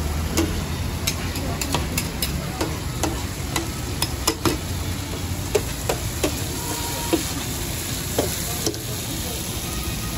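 Mutton liver frying and sizzling in masala on a large flat tawa, with sharp irregular clinks of metal spatulas striking and scraping the pan.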